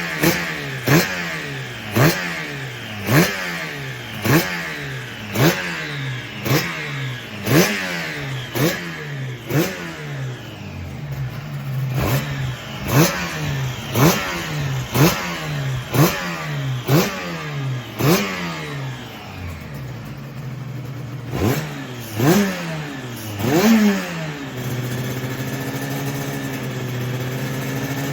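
Freshly rebuilt engine during break-in, its carburettors just re-synchronised, revved in short sharp blips about once a second, each dropping straight back. Near the end it settles into a steady idle.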